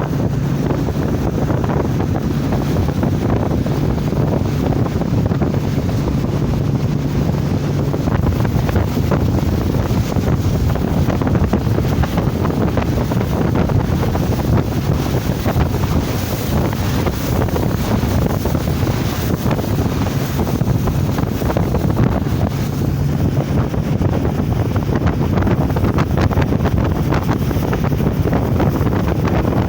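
Wind buffeting the microphone over the steady low rumble of a moving boat, with a faint engine hum that fades out about eight seconds in and returns briefly later.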